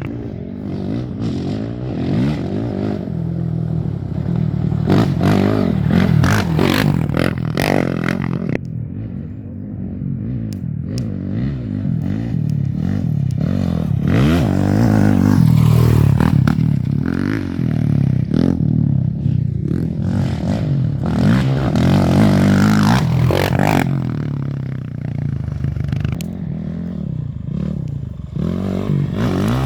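Off-road race motorcycle engines revving hard, the pitch rising and falling over and over, with clattering; loudest around the middle.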